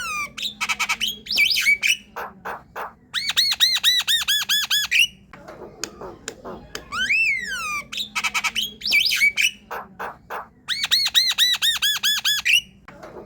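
Javan myna singing: a whistled note sliding down, a run of harsh clicks and rasps, then a fast string of ringing rising notes. The same phrase comes twice, about seven seconds apart.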